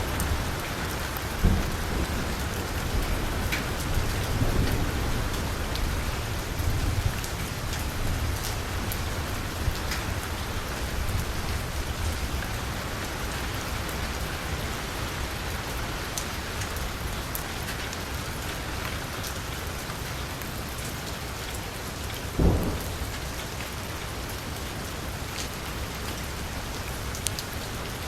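Heavy rain pattering steadily on a vehicle's roof and window, with scattered sharper drop ticks. A low rumble runs through the first several seconds, and a single loud thud comes about three-quarters of the way through.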